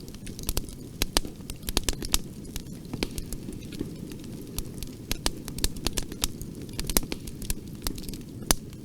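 Bonfire burning: wood crackling and popping in irregular sharp snaps, several a second, over a steady low rush of the flames.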